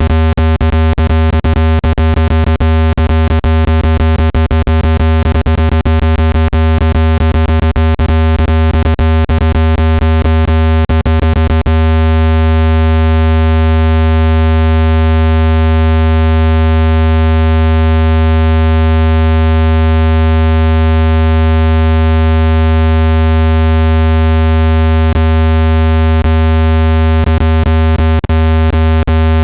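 Water-eject tone for clearing a phone speaker: a loud, steady, low electronic buzz with a stack of overtones, meant to vibrate trapped water out of the speaker grille. It is broken by rapid clicks for the first twelve seconds or so and again near the end.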